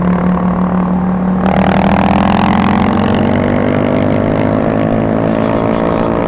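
Honda CBR600RR's inline-four engine running steadily under way. About a second and a half in, a rush of noise joins it, and the engine note climbs a little and then holds steady.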